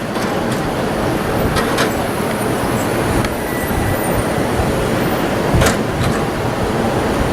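Boardwalk tram car rolling past, a steady rumble of its wheels on the wooden boardwalk with a couple of sharp knocks.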